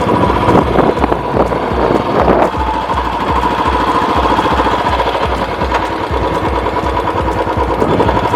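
Royal Enfield Classic 350 BS6's single-cylinder engine running at low revs through its stock silencer, with a slow, even exhaust thump of about three beats a second.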